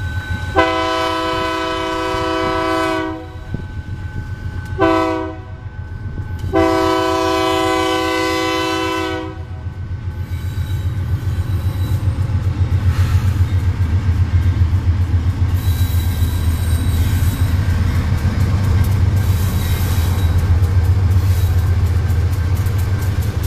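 Diesel freight locomotive's multi-tone air horn sounding a long blast, a short blast and another long blast, the warning for a level crossing. The locomotives then pass close with a steady low engine drone, followed by a regular clickety-clack of wagon wheels over the rails.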